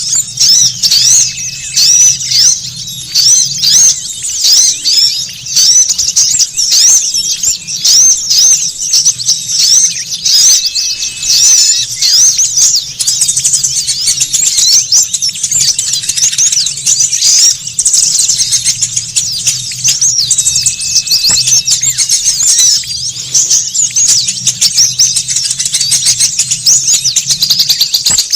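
Many small songbirds chattering at once, with rapid, high, overlapping chirps and twitters in a dense, loud, continuous chorus. It is a lure recording of a noisy flock of small birds, played to attract wild birds.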